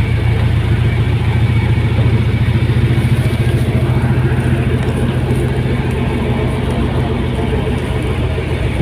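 Fast passenger ferry's diesel engines running, a steady low drone.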